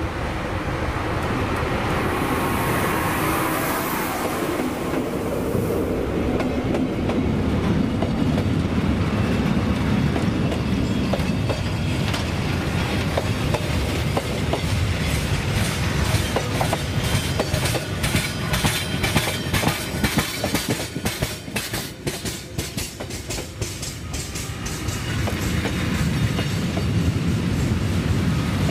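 A D20E diesel-electric locomotive and its freight train pass close by. A high hiss runs for a few seconds near the start as the locomotive goes by. Then the freight wagons roll past, their wheels clattering and clicking over the rail joints, the clicks thickest in the middle.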